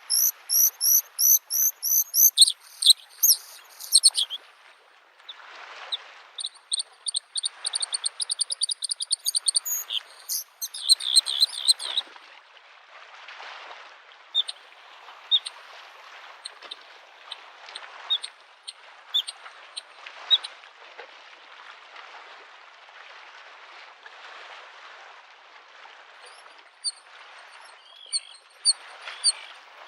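Bluethroat singing in fast runs of high, repeated, varied notes for about the first twelve seconds, then only scattered single notes until the song picks up again near the end. Under it, small lake waves lap the shore in a soft wash that swells and eases every couple of seconds.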